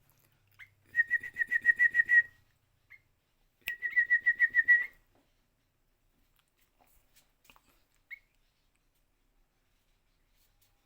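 Kutilang (sooty-headed bulbul) giving two rapid trills of short whistled notes on one high pitch, about eight notes a second, each trill a little over a second long; the call of a kutilang chick, here made by an adult bird.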